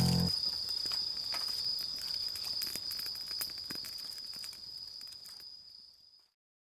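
Crickets or other insects calling in a steady high-pitched trill, with scattered faint clicks, fading out to silence near the end.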